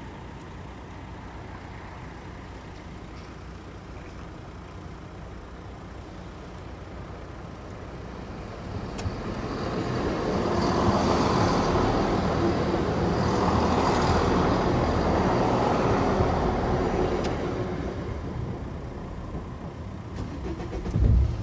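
A vehicle passes by: its noise builds from about eight seconds in, holds loud for several seconds, then fades away. A brief loud thump comes near the end.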